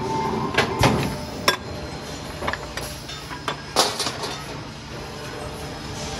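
Automatic round steel bar shearing machine running, a steady mechanical noise broken by irregular sharp metallic clanks and knocks, several in the first four seconds.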